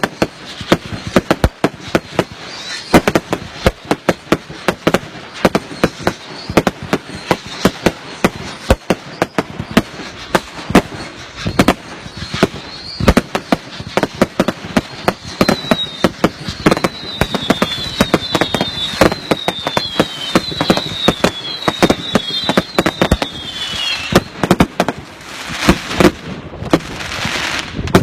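Firework barrage going off: rapid, dense bangs and crackles throughout, joined from about halfway through by a run of short whistles that fall in pitch.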